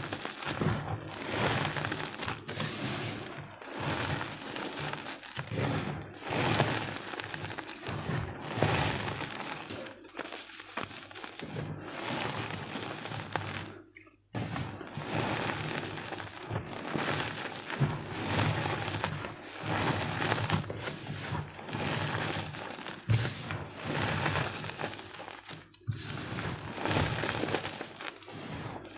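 Blocks of gym chalk, blue chalk and white jumbo chalk, being crushed and crumbled by hand: dry crunching and crumbling in irregular bursts, with a brief pause about halfway through.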